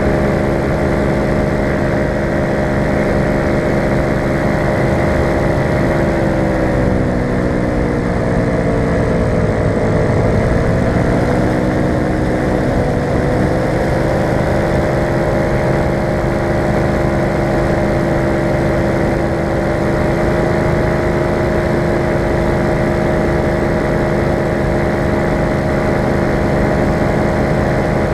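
Falcon four-stroke paramotor of a powered paraglider running steadily. Its pitch sinks for a few seconds about a quarter of the way in, then rises back to where it was.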